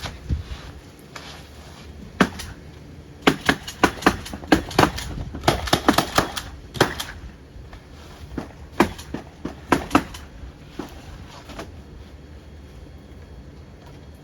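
Milwaukee M18 Fuel cordless nail gun firing nails in quick runs of sharp shots, several a second, with gaps between runs and fewer shots near the end.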